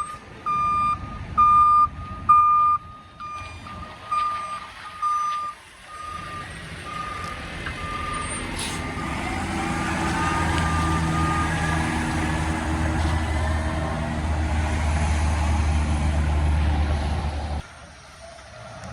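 Garbage truck reversing beeper sounding a bit over once a second, fading away over the first nine seconds. A truck's diesel engine then swells in, growing louder as it pulls through, with a brief hiss about halfway, and cuts off near the end.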